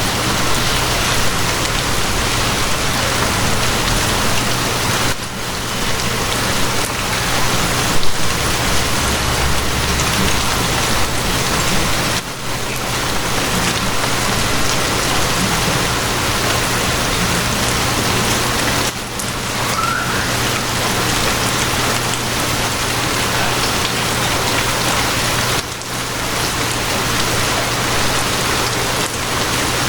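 Steady rain falling, a dense even hiss, with short dips in loudness about every seven seconds. A low rumble rises under it for a few seconds near the middle.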